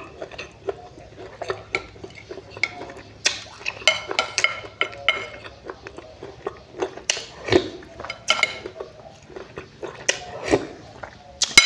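Eating sounds: cutlery tapping and clinking irregularly on a dish, with chewing of the fish roe.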